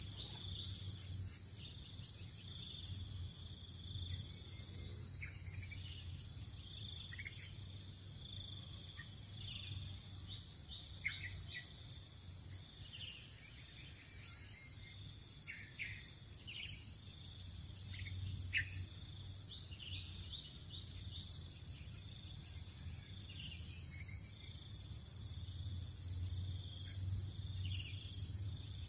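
Steady chorus of crickets or similar insects, a continuous high-pitched trilling, with short faint falling chirps scattered through it.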